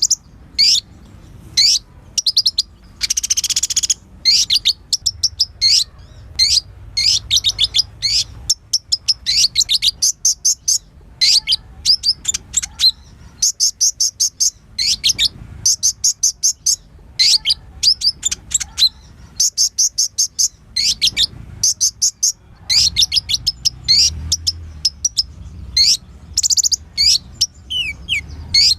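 Kolibri ninja sunbird singing a fast, near-continuous song of high-pitched chirps and trills, with a brief harsh buzzy call about three seconds in.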